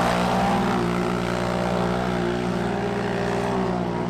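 Engine running at fairly steady revs, a droning note that wavers slightly in pitch.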